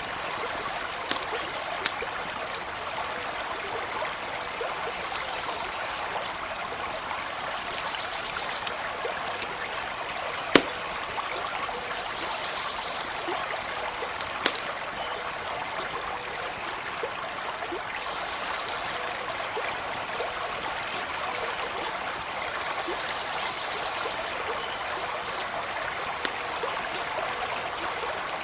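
Stream trickling steadily, with a few sharp crackles from a campfire, the loudest about ten seconds in.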